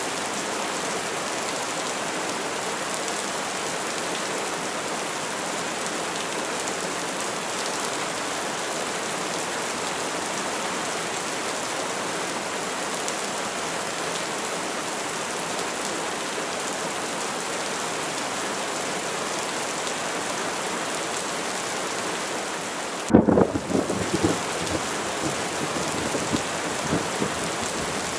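Steady rain falling. Late on, a sudden crack of thunder is followed by a few seconds of crackling, rumbling thunder.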